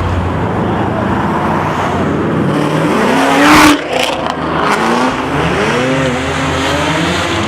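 Performance car engine revving: a long rev climbing to its loudest point about halfway through and cutting off sharply, then several shorter quick blips of the throttle over a steady idling rumble.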